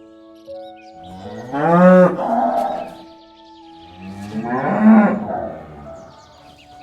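Cow mooing twice, two long moos that rise in pitch, about three seconds apart, with faint steady held tones underneath.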